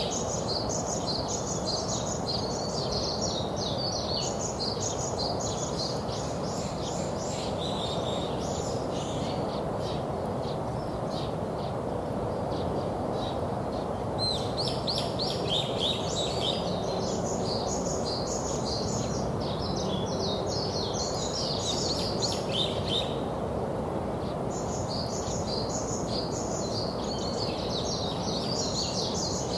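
Songbirds chirping and singing in rapid, dense bouts, dropping off for a few seconds about ten seconds in and again around twenty-four seconds, over a steady background hum of outdoor noise.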